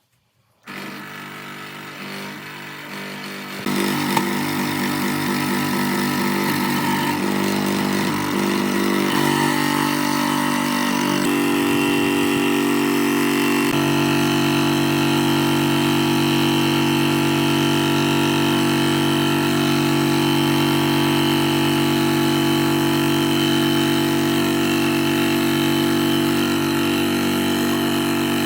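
Restored benchtop jigsaw switched on and running, its motor and reciprocating blade drive making a steady mechanical drone. The sound steps up a few seconds in, shifts twice more partway through, then holds steady.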